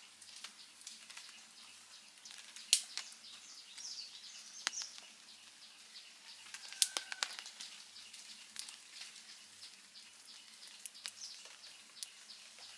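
Campfire crackling: irregular wood snaps and pops over a soft hiss, with two sharp, loud pops about three and seven seconds in.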